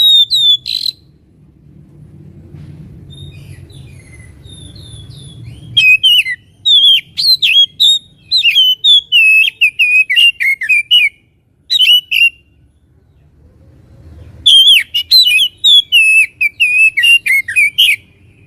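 Oriental magpie-robin (kacer) singing loud, clear runs of varied whistles and chirps, in three spells with pauses of a few seconds between them.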